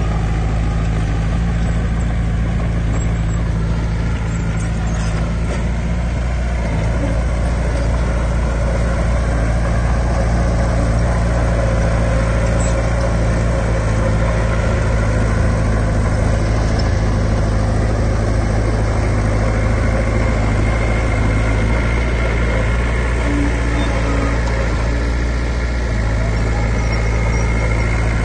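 Heavy diesel engine of earthmoving equipment running steadily at a constant pitch, with a faint high whine above it.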